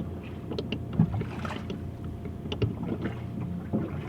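A machine on board running with a steady low hum, with a few light scattered knocks over it.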